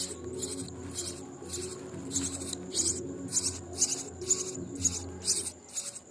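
Nestling birds' begging calls: short, high, hissy cheeps repeated two or three times a second.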